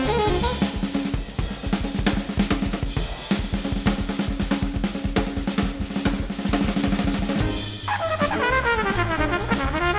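Jazz band music: the drum kit plays a busy passage of rapid strokes, and horns come in about eight seconds in.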